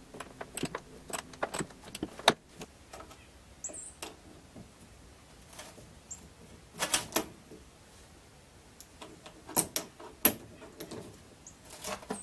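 Scattered metallic clicks, clinks and knocks of hand tools and car parts being handled, with a few louder clatters about seven and ten seconds in.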